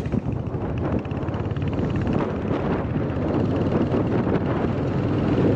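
Royal Enfield 350 single-cylinder motorcycle engine running steadily under way, with wind buffeting the microphone.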